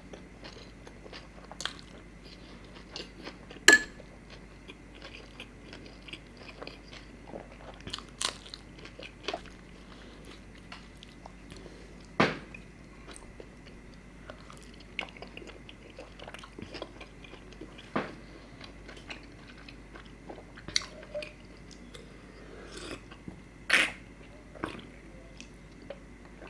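Close-miked eating: chewing and biting a mouthful of rumali roti with tandoori chicken, raw onion and green chutney, wet mouth sounds with scattered sharp crunches. A few louder clicks stand out, the sharpest about four seconds in.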